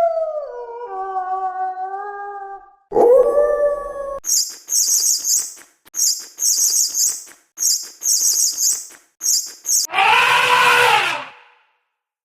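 A run of different animal calls, one after another: a dog-like howl falling in pitch over the first few seconds, a short call about three seconds in, then very high chirping in quick repeated bursts, and near the end a loud, harsh call lasting about a second and a half.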